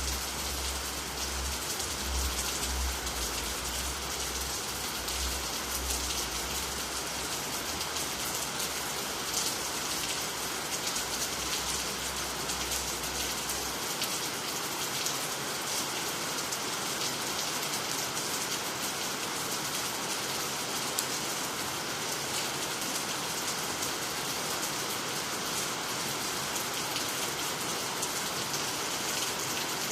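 Steady rain falling on water, trees and the ground, with a dense patter of drops. A low rumble sits under it until about halfway through, then stops.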